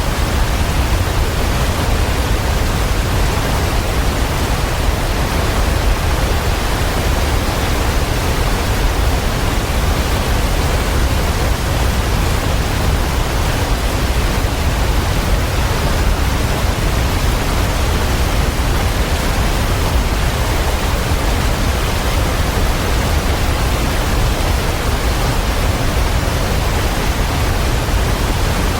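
Waterfall: a steady, even rush of falling water with a deep low rumble under it and no change in level.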